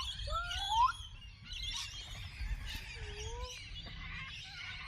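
Birds calling with short rising whistles and chirps, clustered in the first second with another whistle about three seconds in.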